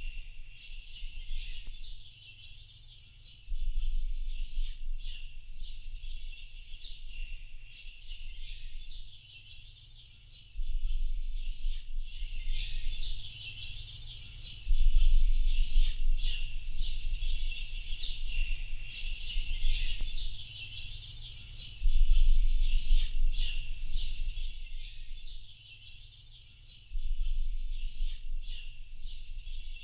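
A chorus of many small birds chirping and twittering densely without pause. Under it a deep low rumble comes and goes in stretches of a few seconds.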